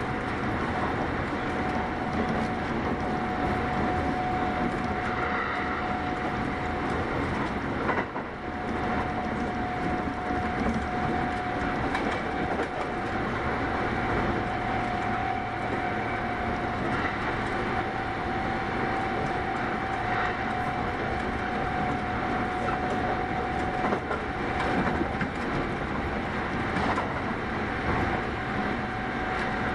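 Kintetsu 8810-series electric train running at speed, heard from inside the carriage: a steady rumble and hiss with a held high tone, and a few faint rail-joint clicks. The sound dips briefly about eight seconds in.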